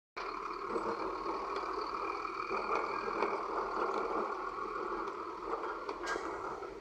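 Heavy earthmoving machinery running steadily, with a faint high whine over the engine and a sharp click about six seconds in.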